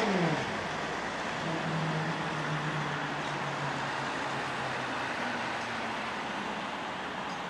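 Container freight train wagons rolling past at speed, a steady rush and rumble of wheels on rail. At the very start a pitched hum drops sharply in pitch and fades as it passes.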